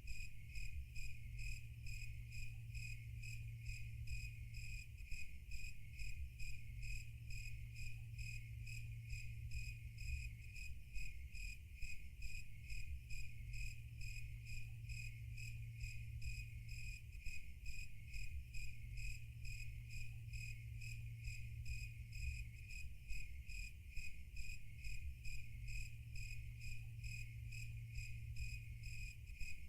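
Crickets chirping in a steady, rapid, evenly pulsed high trill, over a low steady hum.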